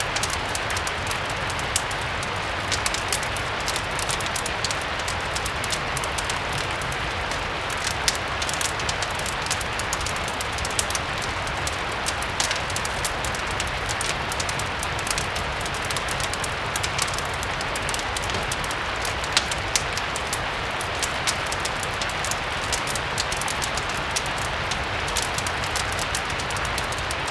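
Steady rain hiss mixed with frequent small sharp crackles and pops from a fireplace, over a low rumble.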